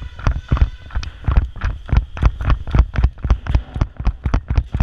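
Running footsteps, with heavy thumps on a body-worn camera's microphone at each stride, about four to five a second.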